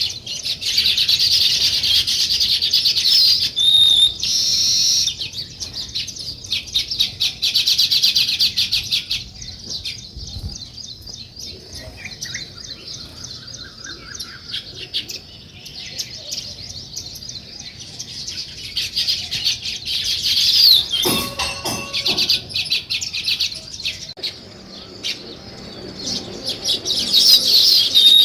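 A flock of house sparrows chirping constantly in rapid overlapping notes. The chirping is thickest at the start, thins out in the middle and builds again near the end. A brief rattling clatter comes about three-quarters of the way through.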